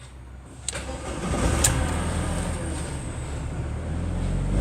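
Ford Transit engine starting: a sudden catch under a second in, a sharp click a second later, then the engine running steadily.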